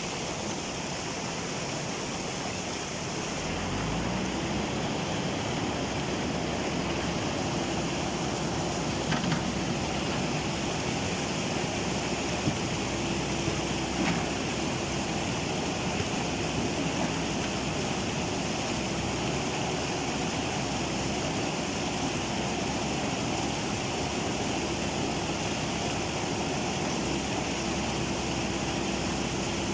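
Rushing floodwater of a swollen river, with a JCB's diesel engine revving up about three seconds in and then held at high revs, the machine stuck in the river.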